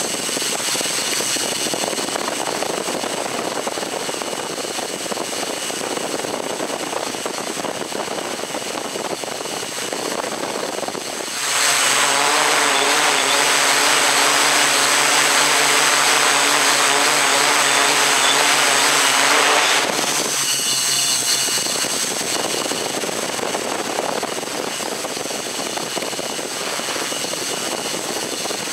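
Motors and propellers of a radio-controlled camera aircraft running steadily, close to the microphone. Near the middle it gets louder for about eight seconds, with a steadier pitched hum as the throttle is raised, then settles back to the earlier level.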